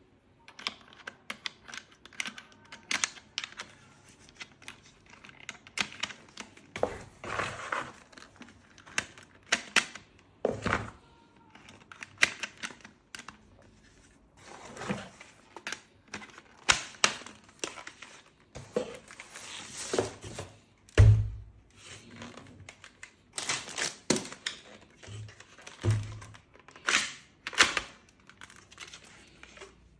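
Irregular clicks, knocks and thunks of objects being handled and set down during an unboxing, with some crinkling of packaging. A heavier thump comes about two-thirds of the way in, and two more follow a few seconds later.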